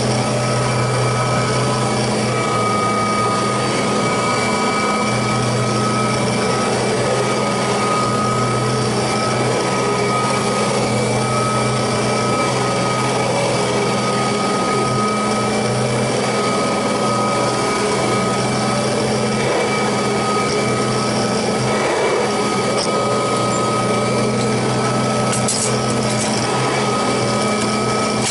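Kirby Heritage II upright vacuum cleaner running steadily: an unchanging motor hum with a higher whine over it.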